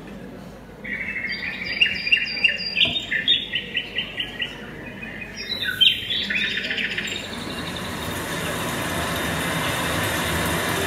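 Bird chirping in two runs of quick, high, repeated notes, several a second, after which a steady sound swells toward the end.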